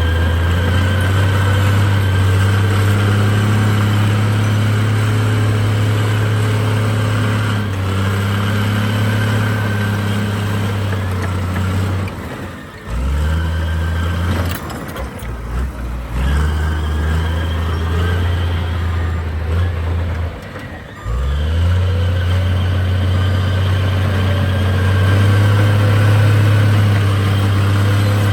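Heavy diesel engine of earthmoving equipment running steadily at high revs, easing off briefly about twelve seconds in and again around twenty-one seconds before picking back up.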